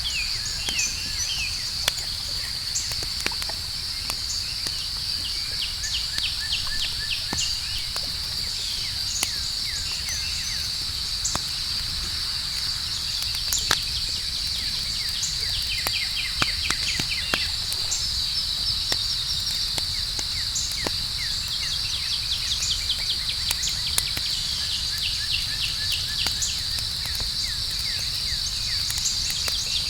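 Campfire crackling, with scattered sharp pops and a low steady rumble, under a continuous high-pitched cricket trill and repeated shorter chirping trills from other insects.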